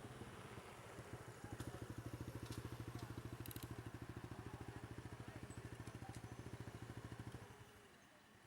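A vehicle engine idling with a fast, even pulse, which stops fairly suddenly about seven and a half seconds in. A few faint clicks sound over it.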